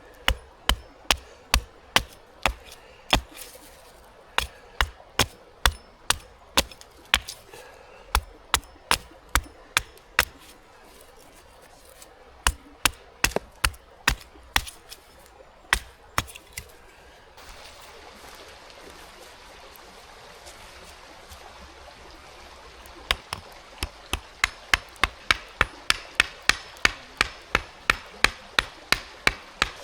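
Wood being chopped with a blade: a steady run of sharp chopping strokes about two a second, stopping about two-thirds of the way in and starting again a few seconds later at a quicker pace.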